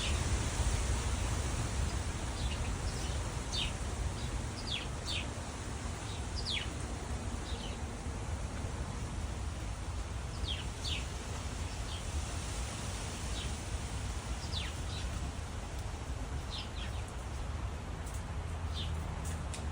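Small birds chirping: many short, downward-sweeping chirps scattered irregularly, over a steady low rumble and hiss.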